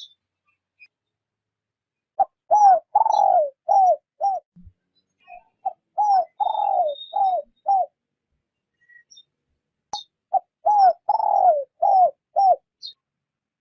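Spotted dove cooing in the soft 'rút bổi' style used as a decoy call to draw wild doves: three phrases of about five short coos, each phrase with one longer falling note in the middle, a second or so of pause between phrases. Faint high chirps of small birds sound between them.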